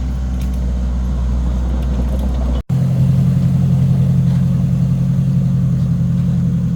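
Excavator's diesel engine running steadily with a low drone. It cuts out sharply about two and a half seconds in, then runs on with a higher, louder hum.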